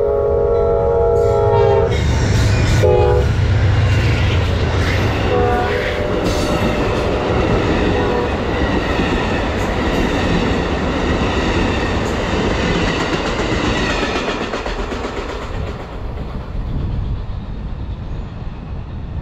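Amtrak passenger train passing through a station at speed. Its horn sounds a long chord that ends about two seconds in, a short blast near three seconds, and another blast from about five seconds. Then the wheels rumble and click over the rails as the cars go by, fading away near the end.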